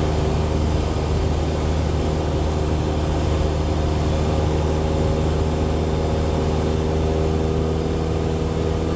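Cessna 172's piston engine and propeller running steadily in flight, heard from inside the cabin as a constant drone with several steady low tones.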